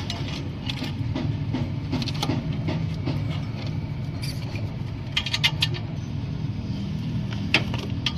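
Suzuki Cultus engine running steadily, with irregular metallic clicks and rattles over it, in bunches about two, five and seven and a half seconds in; the car is in for a clutch plate noise.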